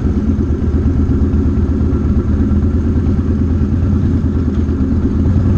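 Motorcycle engine running steadily at a constant, low engine speed, with no revving or gear changes.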